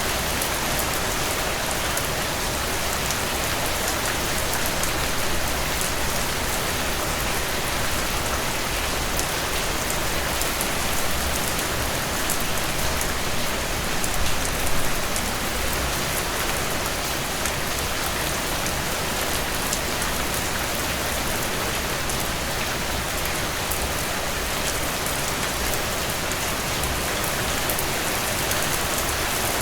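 Steady rainstorm with no thunder: an even hiss of rain with fine scattered drop ticks, swelling briefly about halfway.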